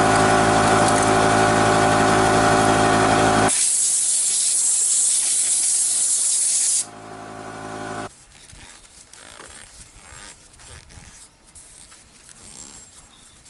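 A motor-driven machine runs with a steady hum and stops about three and a half seconds in, giving way to a loud hiss of spraying air or liquid for about three seconds. A brief quieter hum follows, then only faint small handling noises.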